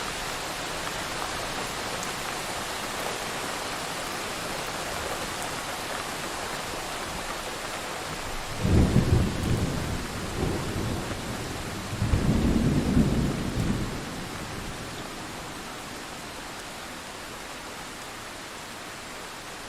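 Steady rain falling, with two rolls of thunder rumbling low and loud about halfway through, one after the other, each lasting a couple of seconds.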